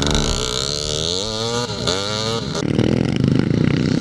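Vintage 250 cc two-stroke motocross bikes racing past, engine pitch climbing, then dropping and rising again. About two and a half seconds in, a rougher engine note takes over.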